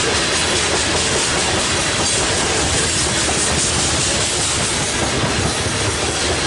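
A BNSF freight grain train rolling past: the steady, loud noise of steel wheels on rail as the cars go by, with a faint steady squeal-like tone underneath.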